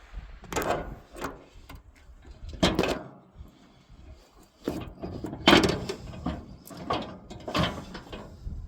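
A derailed snowplow car being worked back onto the rails: about eight separate clunks and scraping knocks as its wheels and frame are shifted against the track, the loudest a little past the middle.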